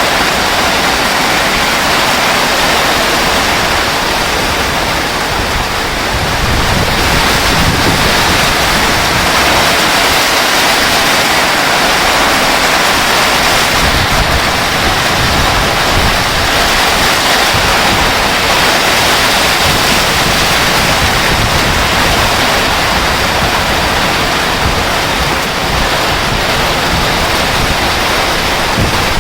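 Heavy rain pouring steadily: a dense, even hiss with a shifting low rumble beneath it.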